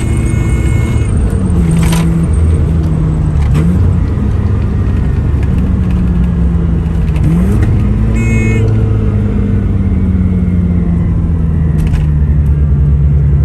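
Mazda RX-7 FC's 13B twin-rotor engine running under way on a test drive, its note steady apart from short pitch changes around a quarter and half way through. The owner finds the engine still misfiring on this drive despite the new fuel pump.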